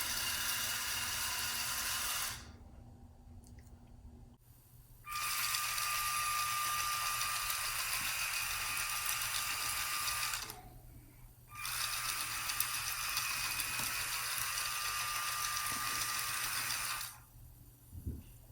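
Electric motors and gearing of a remote-controlled Lego truck on mecanum wheels, giving a steady mechanical whirr as it drives. It runs in three stretches, stopping briefly about two seconds in and again about ten seconds in, and stops near the end.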